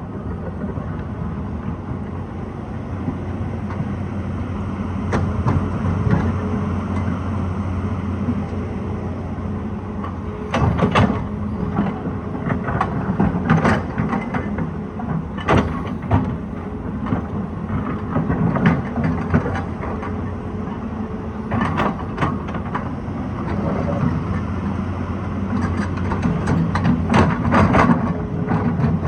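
Excavator's diesel engine running steadily under load, with sharp knocks and rattles at intervals as the bucket and rocks strike each other, most often a third of the way in, around the middle and in clusters near the end.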